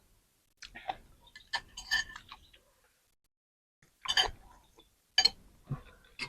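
Close-up eating sounds: chewing and mouth clicks and smacks in short bursts, a cluster about a second and a half in and two louder ones near four and five seconds.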